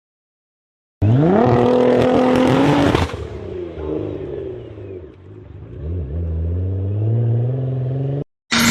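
Toyota Mark X V6 exhaust through an aftermarket tuning muffler, revved: the pitch climbs quickly about a second in, holds high for about two seconds, falls away as the throttle closes, then climbs again slowly before cutting off suddenly. After a short gap another loud burst of engine sound starts near the end.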